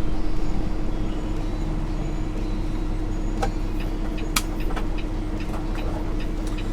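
Semi-truck engine and road noise heard inside the cab while driving: a steady low drone with a constant hum, with a few faint clicks in the second half.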